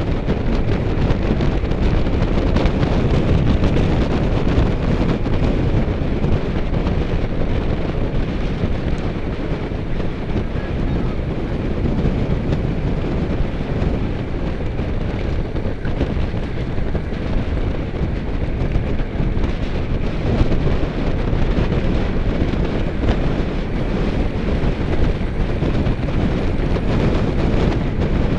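Wind buffeting the microphone of a camera riding along on a moving bicycle: a loud, steady rush, heaviest in the low end.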